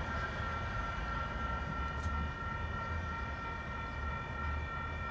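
Distant approaching train heard across open track, with several steady high ringing tones held throughout over a low, uneven rumble.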